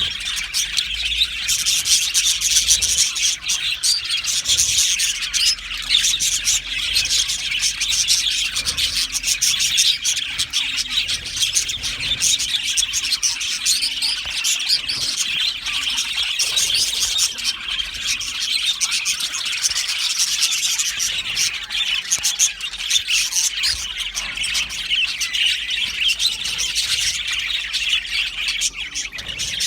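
A flock of budgerigars chattering and chirping continuously, many birds calling over one another in a steady dense twitter with occasional squawks.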